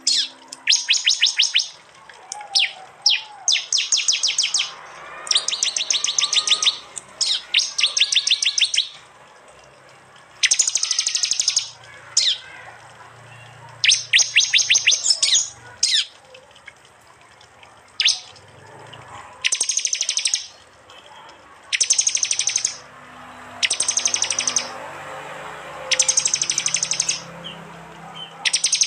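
Prenjak (prinia) birds giving their loud 'tembakan' call: bursts of rapid, sharp, evenly spaced chips, each lasting about a second, repeated every second or two with short pauses between.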